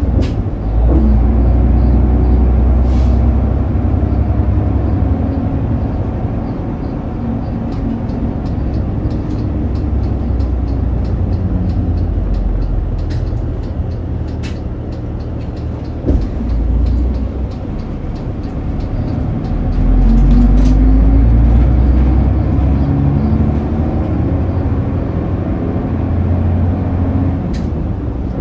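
Route bus heard from inside the cabin while driving: the diesel engine running with a low rumble, its note shifting as the bus speeds up and slows. It gets louder about two-thirds of the way in as the bus accelerates. A few sharp knocks or rattles come from the body.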